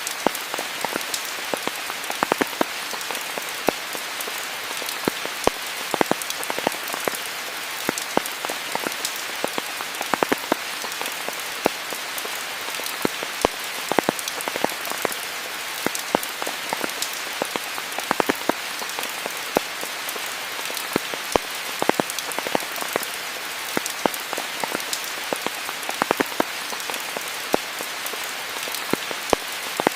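Steady rainfall: an even hiss of rain with many close, sharp drops pattering at irregular moments.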